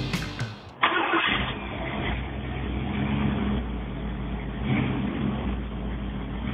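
Music cuts off within the first second. Then a Ford 351 Cleveland V8 fires up and keeps running, its exhaust coming through Flowmaster dual exhaust and roof-tall zoomie side pipes.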